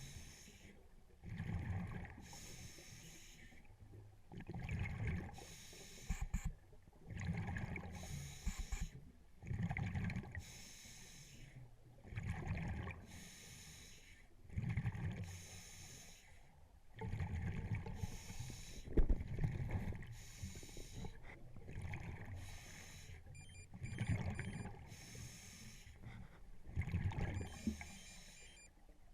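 Scuba diver breathing underwater through a regulator: hissing inhalations alternate with rumbling bursts of exhaled bubbles, a full breath about every two and a half seconds.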